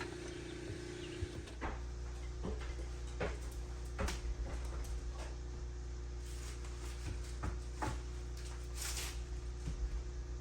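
Carpentry work: scattered sharp knocks and taps, about eight in all, over a steady low machine hum, with a short hiss about nine seconds in.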